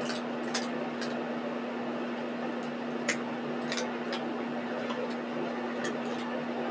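A steady low hum over a noisy background, with a scattering of short, sharp high ticks at irregular intervals.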